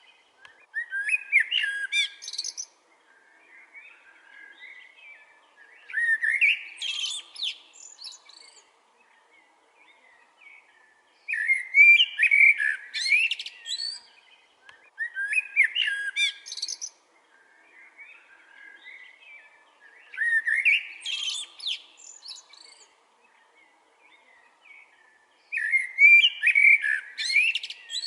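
Wild songbirds singing: loud, quick, varied song phrases come back about every four to five seconds, with softer chirps in the gaps between them.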